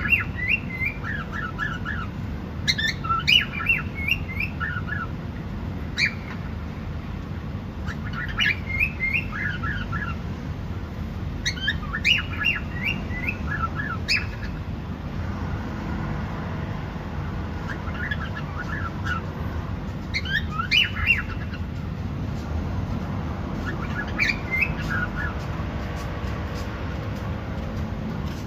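Cockatiel chirping and whistling in short bursts of quick notes every few seconds, over a steady low background rumble.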